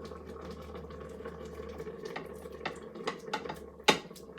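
Coconut curry sauce bubbling in a multicooker pot, with many small pops and crackles, and one louder knock near the end.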